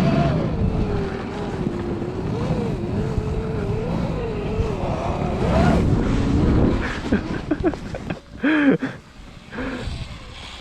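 Electric snowbike with a track kit riding through deep powder: the motor's whine rises and falls in pitch with the throttle over a rough rumble. A little after eight seconds it eases off and the sound drops away.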